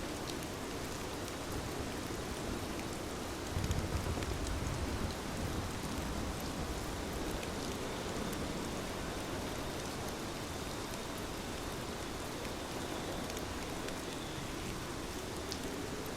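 Heavy rain falling steadily, a dense hiss with scattered individual drop ticks. A brief low rumble comes about three and a half seconds in.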